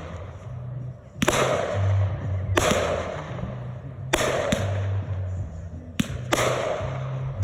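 Consumer fireworks going off: six sharp reports in about five seconds, some in quick pairs, each trailing off into a fading crackle. Low bass notes of music run underneath.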